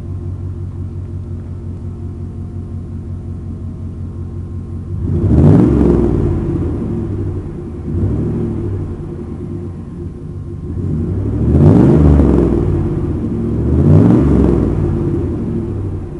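1997 Chevy pickup's engine through a new aftermarket dual side-exit exhaust: it idles steadily, then is revved up and let fall back about four times, three of them hard.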